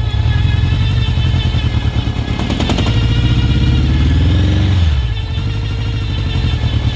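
1983 Honda GL1100 Gold Wing flat-four engine idling and revved once, rising about two and a half seconds in and falling back to idle near five seconds. Over it runs a whine that the owner traces to the tachometer.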